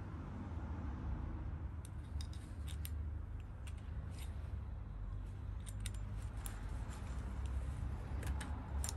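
A scatter of small, sharp clicks at irregular intervals, like snipping or small parts being handled during hand work on a saw, over a steady low hum.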